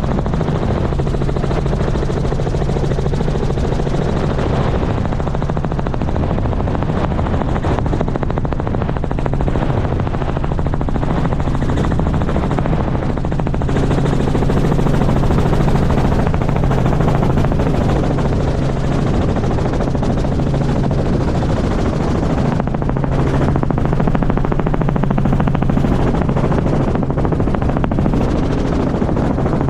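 Helicopter running, its rotor beating rapidly and steadily over a low engine hum; the sound gets slightly louder about halfway through.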